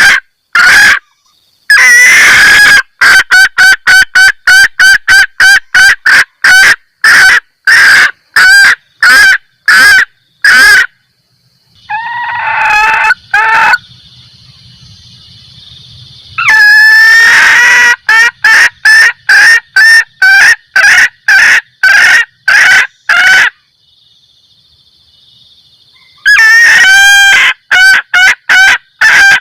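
Junglefowl hen giving her repeated 'kek-kek' mating cackle, used as a lure call to draw in males: loud short clucks about two a second, broken by a few longer drawn-out cackles and two short pauses.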